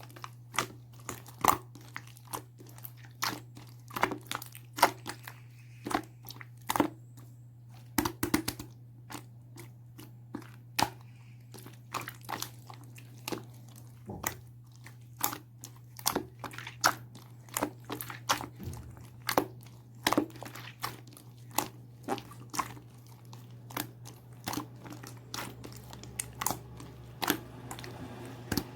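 Crisp crackling and crinkling clicks, irregular at about two or three a second, over a steady low hum.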